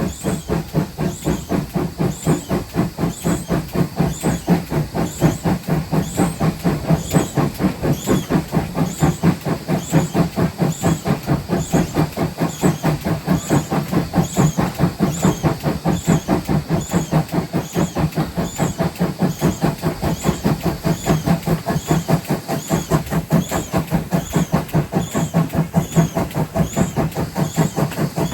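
GWR 5700-class 0-6-0 pannier tank locomotive No. 7754 working under steam, its exhaust beating in a steady, even rhythm as the train runs.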